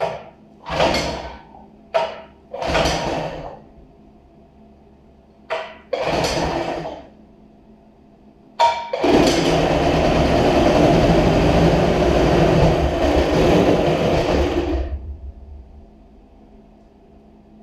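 25 hp Johnson outboard being cranked over three times in short one-second tries, then catching on the fourth and running for about six seconds before it fades out and stops. This follows a richening of the low-speed mixture to cure lean running.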